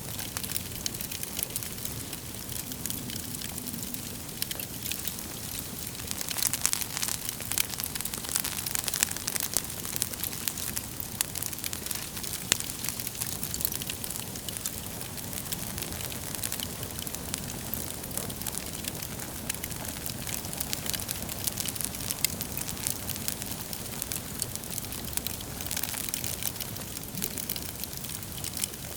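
Wood fire burning in a fireplace: constant crackling and popping of the burning logs over a low steady rush of flame, with a busier spell of pops a few seconds in.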